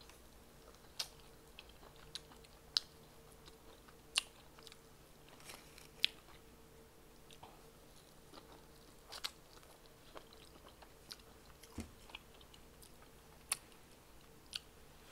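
A person chewing and biting food close to the microphone, with irregular sharp mouth clicks and smacks scattered throughout.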